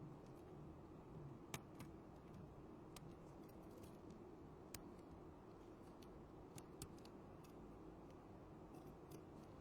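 Near silence with a handful of faint, sharp clicks and ticks at irregular intervals from small hand tools working on an iPhone during a repair.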